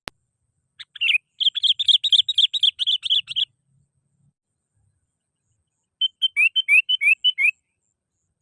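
Sooty-headed bulbul (kutilang) singing in a lure call: a rapid chattering run of notes for about two and a half seconds, a pause, then a shorter phrase of about eight quick notes with rising slurs. A brief click sounds at the very start.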